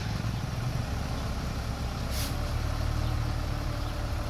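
Komatsu mini bulldozer's diesel engine running steadily, with a brief hiss about two seconds in.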